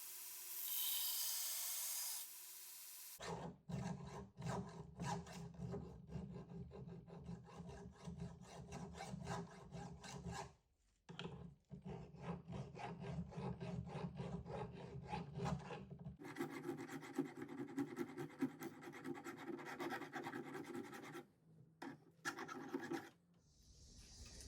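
Hand file worked back and forth on the steel tang of a Damascus knife blade, in long runs of regular strokes with a short pause partway through. About two-thirds of the way in the strokes change in tone, then stop near the end.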